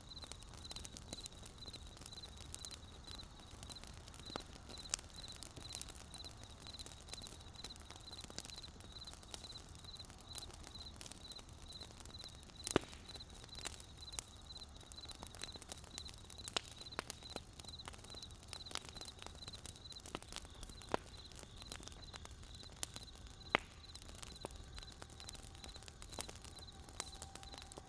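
Wood fire crackling, with irregular sharp pops and snaps over a low, steady rumble. Through the first half a high chirp repeats evenly a few times a second, then fades out.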